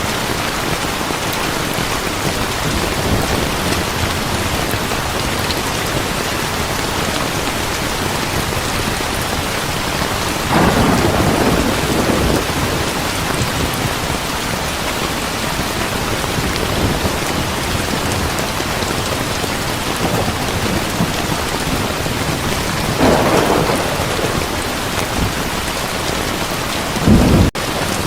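Heavy rain pouring steadily, with two rolls of thunder, about ten seconds in and again about twenty-three seconds in. A short, sharp rumble of thunder comes near the end.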